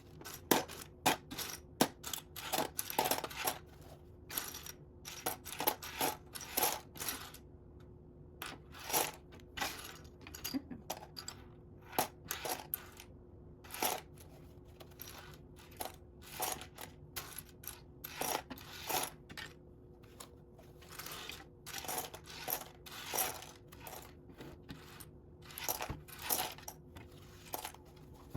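Loose plastic Lego bricks clattering and clicking as a hand sifts through a pile of them, in irregular spells of rattling with short pauses between.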